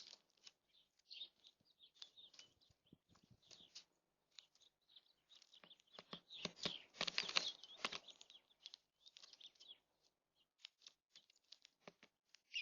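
Small birds at a platform feeder: faint, scattered chirps and quick clicks of pecking at seed, busiest a little past the middle.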